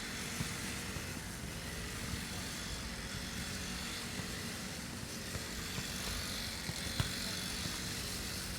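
Lawn mower engine running steadily while cutting grass, with a few sharp knocks over it, the loudest about seven seconds in.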